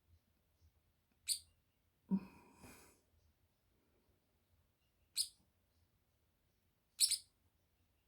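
Pet parrotlets giving three short, sharp chirps spread over several seconds. About two seconds in there is a slightly longer, lower vocal sound.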